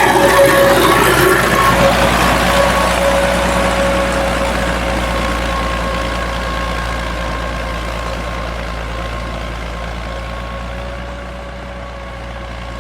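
An engine running steadily, with a low hum and a steady whine over it, slowly getting quieter.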